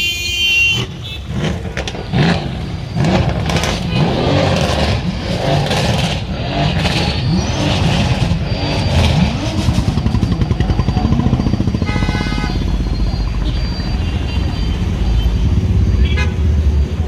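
Several sports car engines revving again and again in short rising-and-falling blips over a steady low engine rumble. A car horn sounds right at the start and again briefly about twelve seconds in.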